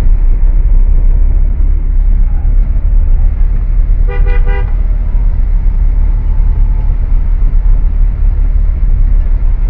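Steady low rumble of vehicle and wind noise, with a vehicle horn giving a quick run of short beeps about four seconds in.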